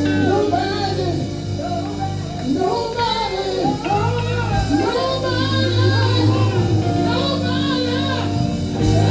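Gospel group singing with live band accompaniment, the voices sliding between held notes over a steady bass.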